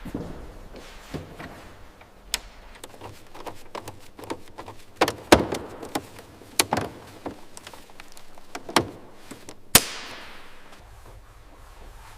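Irregular clicks and knocks of work on metal fittings, with a few sharp loud ones in the middle; the loudest, near the ten-second mark, is followed by a short hiss that fades away.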